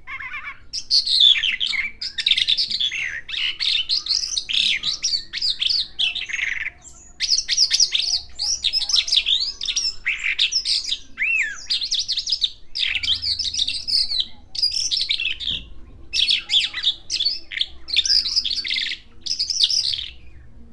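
Javan bush lark (branjangan) singing a long, varied song of rapid chirps, trills and whistles, delivered in phrases with brief pauses between them.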